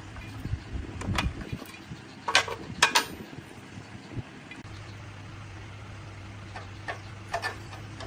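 Workshop handling noise: a few sharp knocks and clatters, the loudest pair about two and a half to three seconds in and lighter ones near the end, over a steady low hum.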